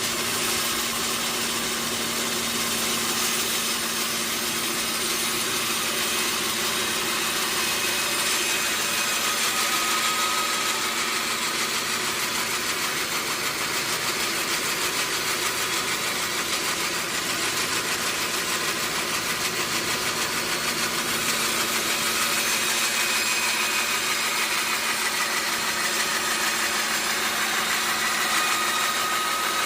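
Sawmill machinery running steadily: an even hiss over a steady hum, with a faint whine coming and going.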